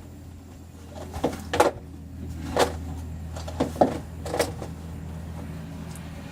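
A wheelchair's frame knocking and clacking against the inside of a pickup cab as it is stowed: about six sharp knocks over a few seconds, over a steady low hum.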